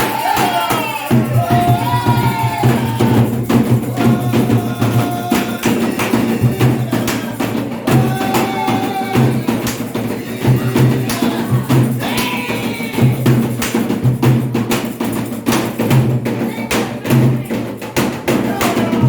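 Candomblé ceremonial music: hand drums and other percussion playing a dense, fast, steady rhythm, with voices singing over it.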